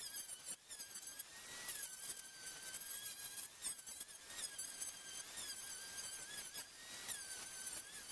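Electric sander running on pallet boards: a steady high-pitched whine that sags slightly in pitch now and then as it is pressed into the wood, broken by brief gaps every second or so.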